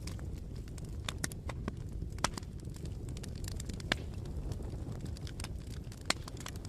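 Wood fire burning: a steady low rumble with irregular sharp crackles and pops, the loudest pops about two, four and six seconds in.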